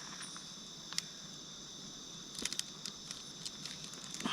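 Steady high-pitched chorus of crickets, with a few faint small clicks and crackles about a second in and again around two and a half seconds in.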